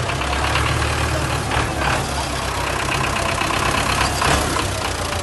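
A tractor engine running steadily with a low rumble.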